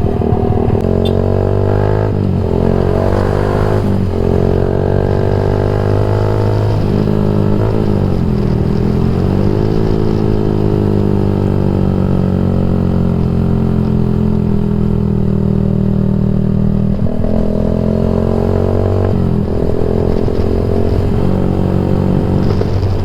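Yamaha MX King 150's single-cylinder four-stroke engine through a Rob1 TGA aftermarket exhaust while riding, its note very bassy. The pitch dips and climbs with throttle and gear changes, holds steady for a long stretch in the middle, then changes again near the end.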